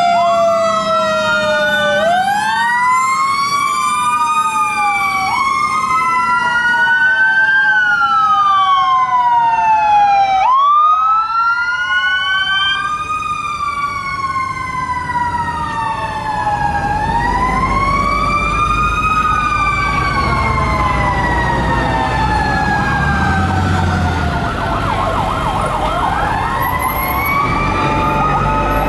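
Several fire truck sirens wailing at once, each rising and falling in pitch out of step with the others. From about halfway through, the low rumble of the passing trucks' engines grows underneath, and a faster warbling siren joins in near the end.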